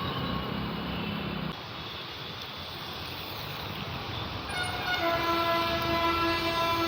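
A steady background hiss, then a long, steady horn blast starting about five seconds in and held to the end.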